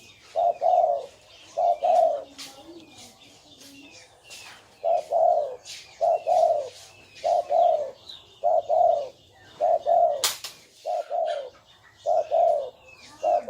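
Spotted dove cooing: a run of two-part coos repeating about once a second, with a pause of a few seconds early in the run. Short high ticks sound throughout, with one sharp click about ten seconds in.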